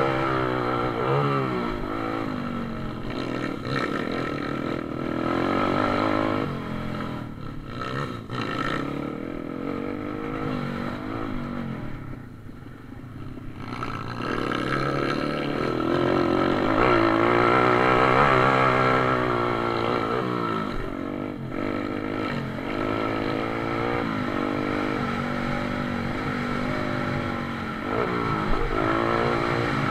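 Several pit bike engines racing, revving up and down as they change gears, their rising and falling tones overlapping. The sound dips briefly just before halfway and is loudest soon after.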